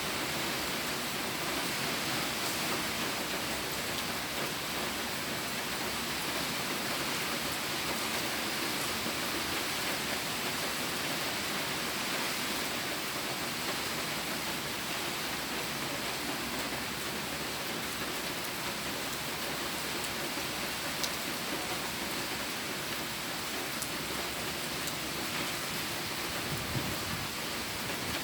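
Steady rain falling, an even hiss with a few individual drops ticking out of it.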